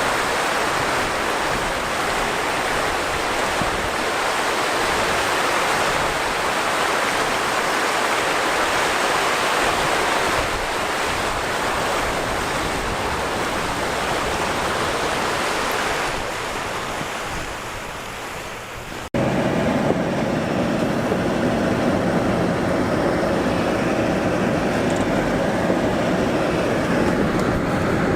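Steady hiss of a truck's tyres on a wet, slushy road while driving. About two-thirds of the way in it fades, then cuts abruptly to a fuller, lower road-and-engine drone.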